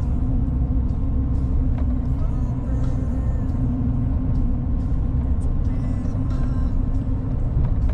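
A motor vehicle running with a steady, even low rumble.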